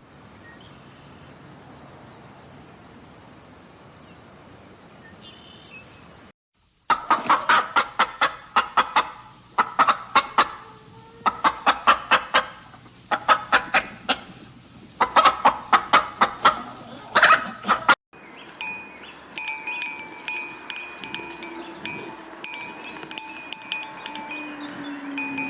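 Domestic fowl clucking in loud rapid bursts of sharp calls, a group every second or two, after a quieter stretch of faint noise. Later, about eighteen seconds in, a separate recording with ringing, chime-like tones and a low falling call takes over.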